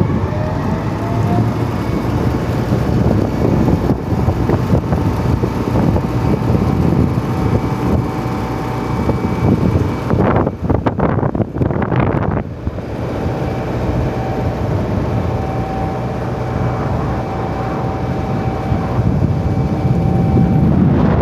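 Passenger boat's engine running steadily under way, a constant drone with a thin steady whine, mixed with wind on the microphone. The whine drops out for a couple of seconds about ten seconds in.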